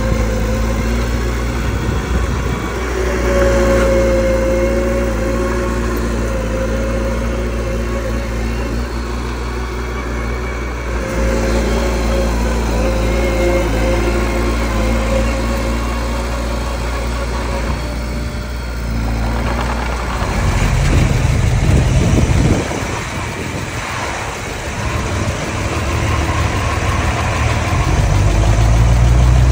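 Mini bulldozer's diesel engine running steadily; about two-thirds of the way through it turns louder and rougher, eases, then builds again near the end as it works under load.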